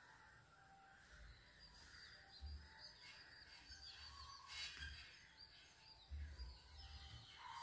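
Near silence: a faint background with distant birds chirping now and then.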